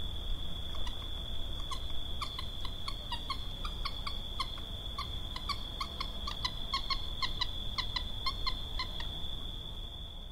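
A bird calling over and over in short pitched notes, about two to three a second, over a steady high whine and a low rumble.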